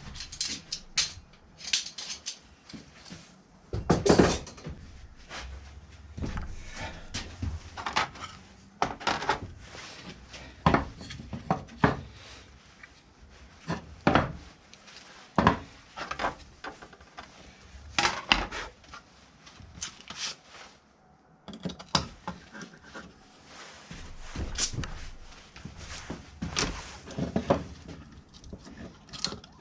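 Irregular clicks, taps and knocks of hard parts being handled and fitted together, with quieter rustling between them. The loudest knock comes about four seconds in.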